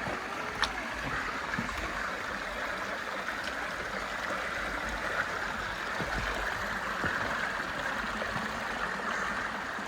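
Steady rainforest night ambience: an even, continuous hiss concentrated in a mid-high band, with one sharp click a little under a second in.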